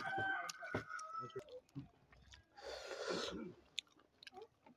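Close-up chewing and lip-smacking of a person eating pork curry and rice, with many small wet clicks, and a short breathy rush about three seconds in.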